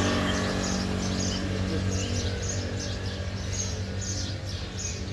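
Small birds chirping in a quick string of short, high calls over a steady low hum.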